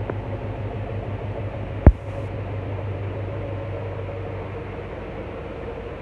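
Chevrolet 327 small-block V8 idling steadily with an even low pulse. One sharp knock about two seconds in.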